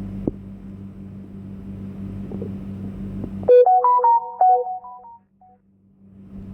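Steady background hum with an occasional click, cut off suddenly about three and a half seconds in by a short electronic jingle of a few quick synthesizer-like notes lasting about a second and a half.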